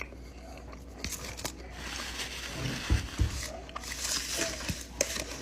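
Close-miked eating sounds: a person biting and chewing an empanada, with a few sharp clicks and crackly, crinkling noise.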